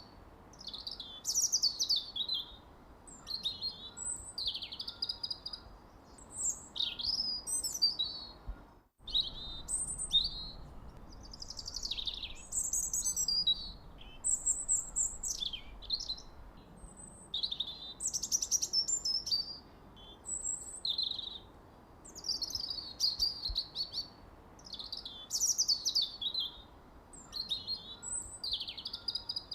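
Songbirds chirping and singing in quick, repeated high phrases, almost without pause, over a faint steady background hiss. About nine seconds in, the sound briefly cuts out completely.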